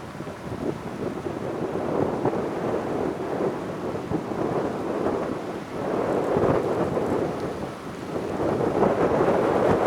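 Jet engine noise of a departing Boeing 787-9 at takeoff power: a deep, rumbling roar that surges and fades in waves and grows louder toward the end.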